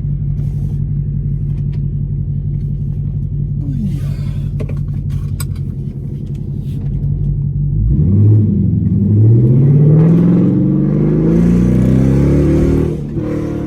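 Car engine with freshly redone exhaust idling steadily, then accelerating from about eight seconds in, its pitch rising for about four seconds before dropping off near the end as the throttle is lifted.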